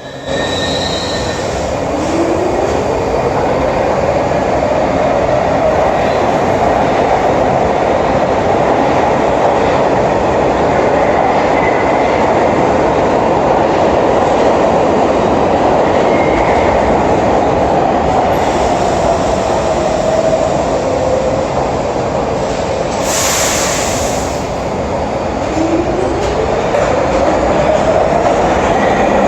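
New York City subway (3) train running, its motor whine rising in pitch, holding, falling and then rising again over a steady rumble of wheels on rail. A short hiss cuts in about three-quarters of the way through.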